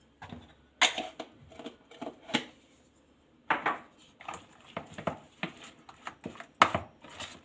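Irregular clinks and knocks of a utensil against a bowl as a flour batter is added to and mixed, with a brief pause about halfway through.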